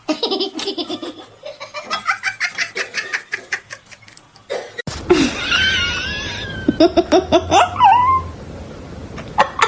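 People laughing hard in quick repeated bursts. About five seconds in there is an abrupt cut to another clip with a wavering high-pitched sound, followed by more laughter.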